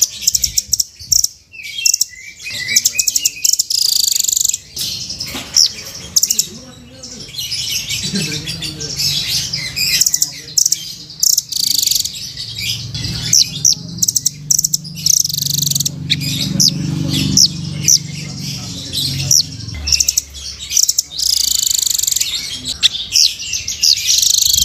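Velvet-fronted nuthatch (rambatan) calling in rapid, high-pitched chirping trills, repeated over and over with short pauses. A low hum sits underneath about halfway through.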